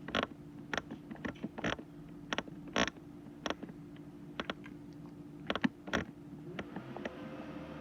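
A run of irregular sharp clicks and taps, some in quick pairs, over a faint steady hum.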